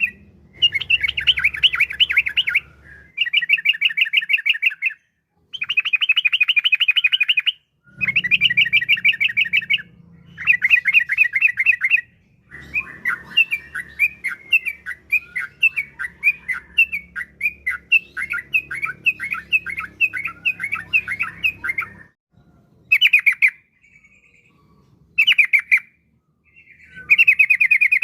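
Yellow-vented bulbul (trucukan) singing vigorously: rapid chattering phrases of a second or two each, repeated with short pauses, then a long varied run of quick notes in the middle and two short phrases before a last one near the end.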